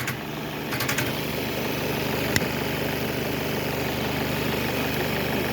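Car engine idling steadily after a jump start, with a few light clicks about a second in.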